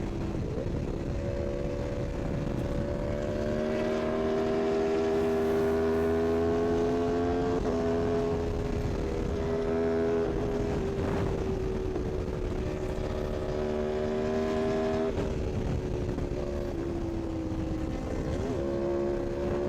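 Superbike engine running at high revs at speed, its steady note drifting slowly and dropping sharply three times, over a rushing noise.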